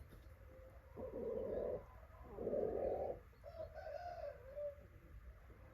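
Pigeons cooing: two low, full coos about a second apart, followed by a softer wavering call.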